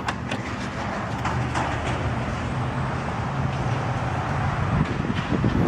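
Electric power-tailgate motor on a BMW X5 M humming steadily as it raises the upper tailgate, stopping a little before five seconds in.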